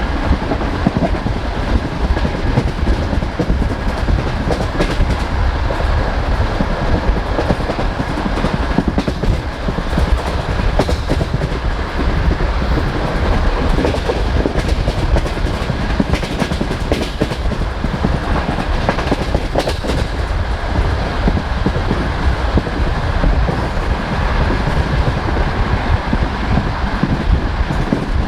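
Passenger train carriage rolling along the track, its wheels clattering over rail joints with a steady rumble and irregular clicks, and a faint steady whine above.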